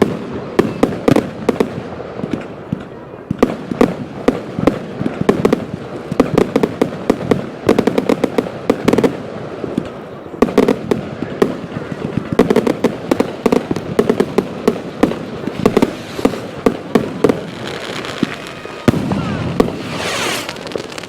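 Fireworks going off in a dense, irregular barrage of bangs and crackles, with a rising whistle near the end.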